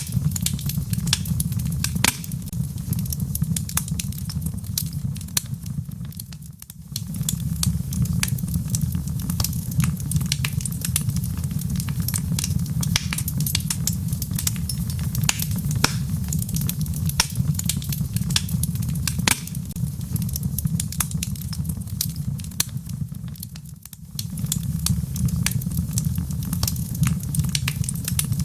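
Wood fire burning in a fireplace: logs crackling with frequent sharp pops over a steady low rumble of flame, which fades away briefly twice.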